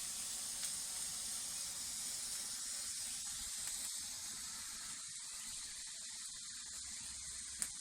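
Homemade potassium nitrate and sugar smoke flare burning with a steady hiss, easing off a little in the second half.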